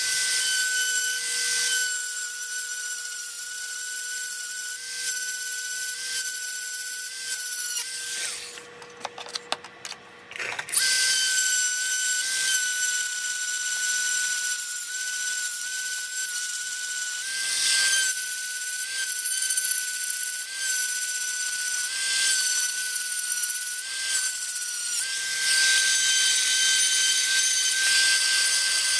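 Electric power tool working material, a steady whine over a gritty hiss that dips slightly each time it is pressed into the work. It stops for about two seconds around a third of the way in, with a few clicks, then runs again.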